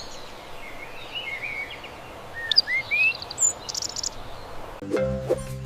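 A recording of a songbird calling: scattered short chirps and quick rising whistles over a steady outdoor hiss. Near the end, a short burst of children's music starts.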